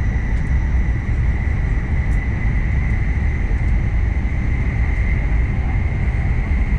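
Cabin running noise of a Nishi-Kyushu Shinkansen Kamome N700S train at speed in a tunnel: a loud, steady deep rumble with a constant high whine above it.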